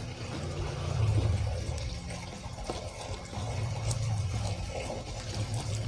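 Close-up chewing of fresh basil leaves, over water running in the background.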